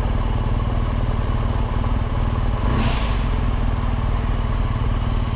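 Motorcycle engine running steadily while riding, with a brief hiss about three seconds in.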